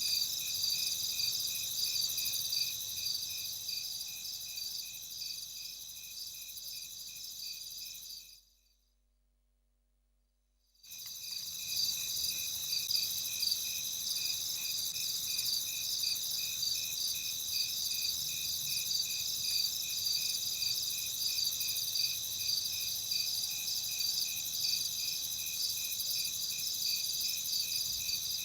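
Night insect chorus: crickets chirping in steady, even pulses at several high pitches layered together. It fades out about eight seconds in, leaves near silence for two or three seconds, then cuts back in abruptly.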